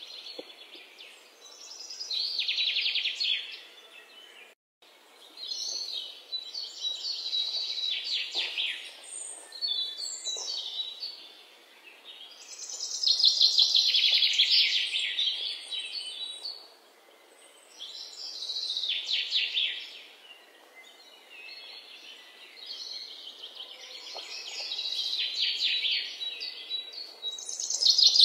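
Birds singing: repeated rapid trilled phrases, each a second or two long, recurring every few seconds.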